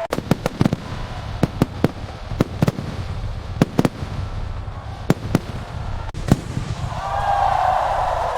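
Fireworks going off: a string of sharp bangs at uneven intervals over a steady low rumble of further explosions.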